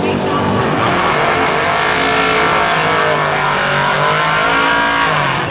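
Drag race car engine running at full throttle on a pass down the strip. Its pitch dips and climbs again several times as it goes.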